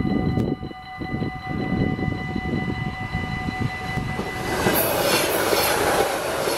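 A passenger train passes over a level crossing at speed: a rushing rail-and-wheel noise builds up, with quick clicks of the wheels over rail joints in the last couple of seconds. Before it arrives, a steady high tone made of several pitches sounds and cuts off about four and a half seconds in.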